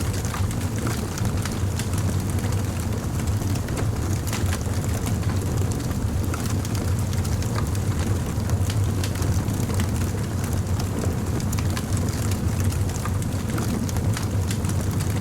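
Crackling fire: irregular small pops and crackles scattered over a steady low rumble.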